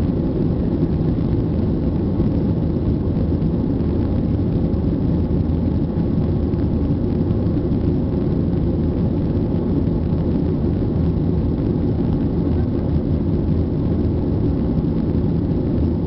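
Steady low rumble of a Boeing jet airliner's engines running at take-off power, even in level throughout.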